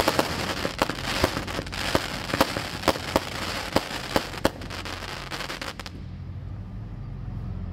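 Several Under Construction 200-gram firework cakes firing together: rapid shot launches and sharp bursting reports with crackle. The shots thin out about four and a half seconds in and die away near the end.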